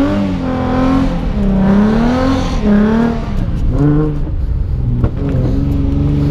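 Nissan 350Z's V6 engine revving, its pitch rising and falling several times before levelling off near the end, as the rear-wheel-drive car is kept sliding in donuts on wet pavement.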